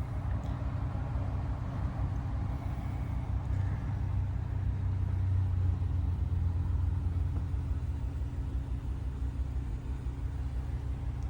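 Ram 2500's 6.4-litre Hemi V8 idling with a steady low rumble, a little louder for a few seconds around the middle.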